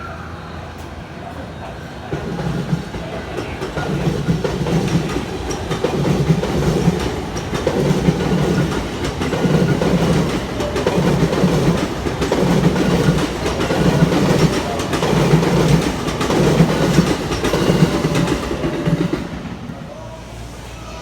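Tokyo Metro Tozai Line train moving slowly along the platform, its wheels clacking over rail joints in an even beat about once a second. The rumble swells in a couple of seconds in and fades away near the end.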